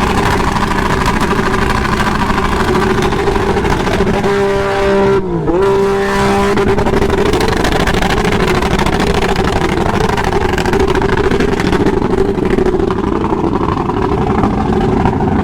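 Motorcycle engines running loudly and steadily. About five seconds in, one engine's pitch briefly dips and comes back up.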